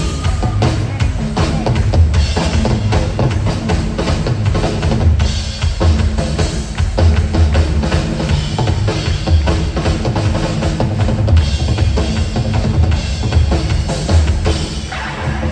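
Live rock band playing, carried by a steady drum kit beat with heavy kick drum and snare hits, with other instruments underneath.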